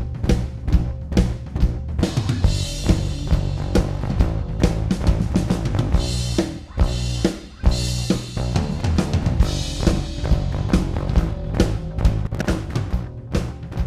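A live drum kit and bass guitar playing a groove, run through compressor plugins: steady kick and snare hits over a bass line, with cymbals washing in for a few seconds twice.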